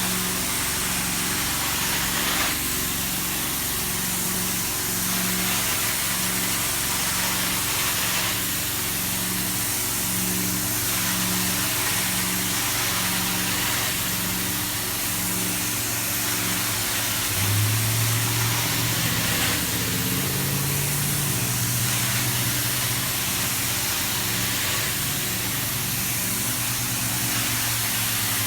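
Carpet cleaning extraction machine running: a steady motor hum under a loud hiss of spray and suction that swells and eases every few seconds, with a low pulsing about once a second.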